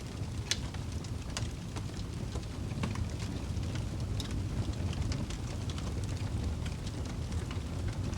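Wood fire burning in a fireplace: a steady low roar of flames with frequent irregular crackles and pops, the sharpest about half a second in.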